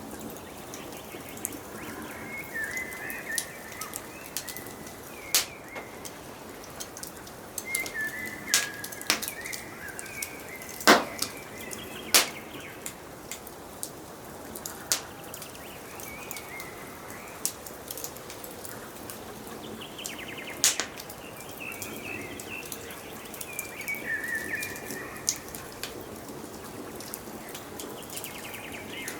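Wood fire crackling, with sharp pops scattered through and the loudest pop about eleven seconds in, under forest birds singing short warbling phrases several times.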